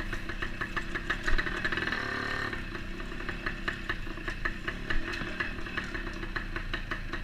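Kawasaki HDX motorcycle engine running steadily, with rapid, even ticking. Its clutch has just been repaired and is no longer slipping.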